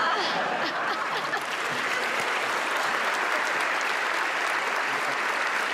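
Studio audience applauding steadily, with some cheering mixed in.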